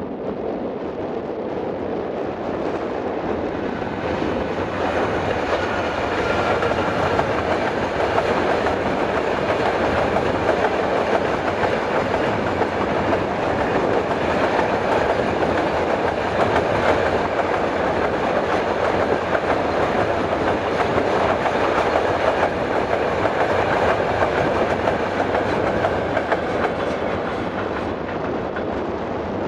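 Freight train of enclosed double-deck car-carrier wagons, hauled by an ÖBB electric locomotive, rolling past: a steady rumble and clatter of wheels on the rails. It grows louder over the first few seconds as the wagons come by and eases off slightly near the end.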